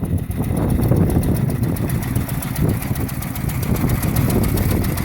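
A vintage vehicle's engine running steadily at low revs, with a fast even pulsing.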